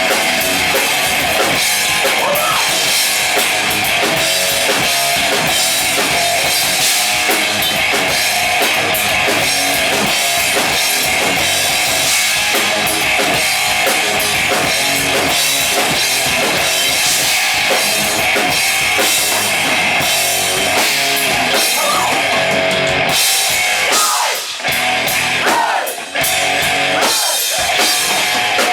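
Band playing heavy metal, an instrumental passage of drum kit and electric guitars, with a brief break in the playing about 24 seconds in.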